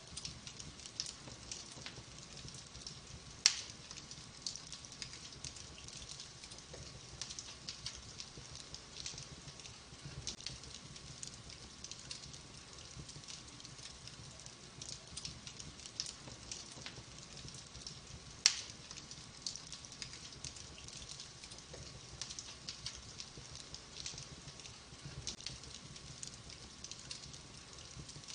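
Wood fire crackling with frequent small pops, and two much louder, sharper pops, one a few seconds in and one about two-thirds of the way through.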